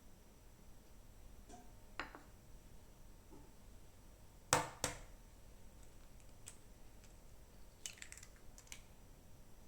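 Kitchen utensils and containers being handled: scattered light clicks and taps, with two sharp knocks in quick succession about halfway through.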